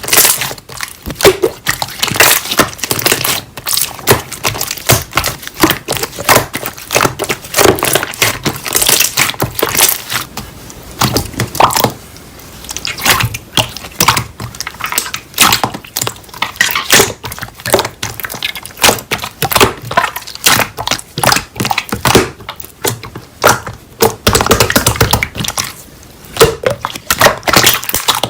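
Slime being squeezed, poked and folded by hand, making a fast, irregular run of sticky clicks, pops and crackles from trapped air.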